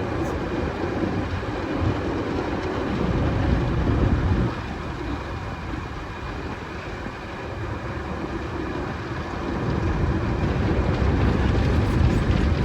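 A car wash running, heard from inside the car: a steady rushing rumble of water spray and washing equipment on the body. It swells a few seconds in, drops off sharply about four and a half seconds in, then builds again toward the end.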